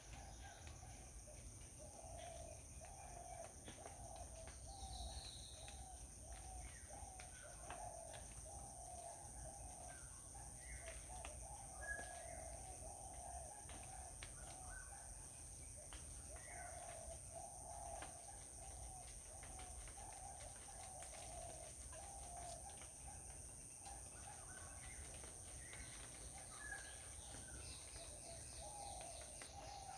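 Faint bird calls: a run of short, low clucking calls repeating throughout, with scattered higher chirps, over a steady high-pitched drone.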